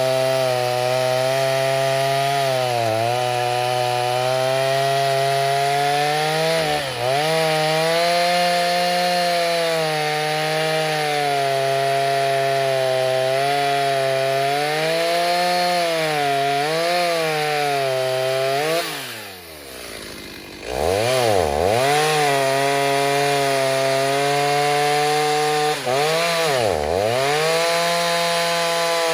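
Freshly rebuilt Stihl 029 two-stroke chainsaw with a 45 mm big bore cylinder, running at full throttle through wood, its pitch sagging and recovering as the chain bites. About two-thirds through it drops to idle for a moment, is revved up several times in quick blips, then runs at high revs again.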